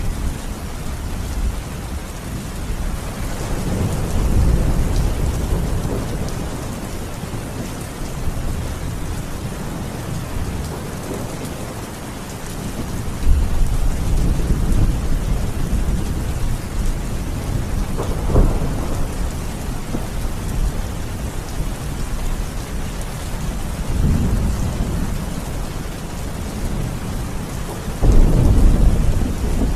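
Steady rain falling through a thunderstorm, with repeated low rolls of thunder. A sharper thunderclap comes about 18 seconds in, and a loud rumble comes near the end.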